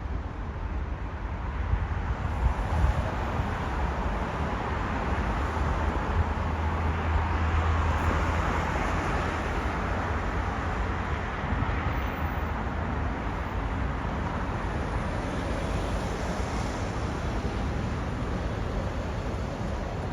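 A train passing through the station: a rushing rumble that swells to its loudest about eight seconds in, then carries on a little quieter.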